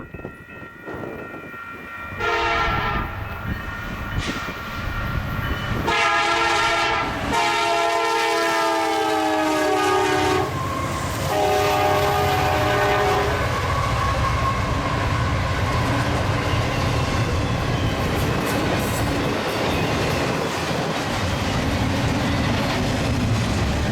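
Diesel locomotive air horn on a fast Union Pacific freight sounding several chord blasts, the last ending about 13 seconds in, followed by the steady rumble and wheel clatter of the train running by at speed.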